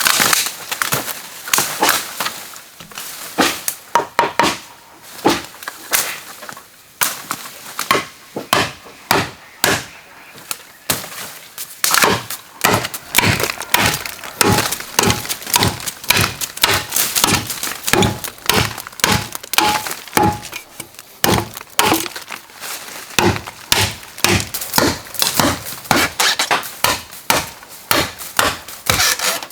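Bamboo being struck over and over with a hand tool: sharp knocks coming about two a second in an uneven rhythm.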